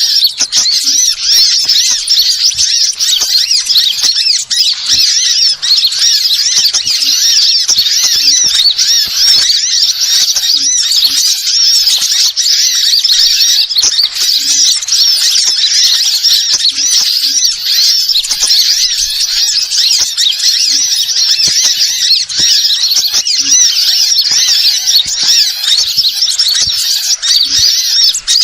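Loud, unbroken high-pitched bird chirping and twittering: a bird-lure call recording (suara pikat) of the kind played to draw wild birds in.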